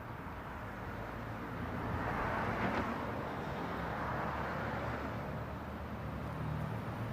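A vehicle passing, its noise swelling to a peak about three seconds in and then easing off over a low rumble.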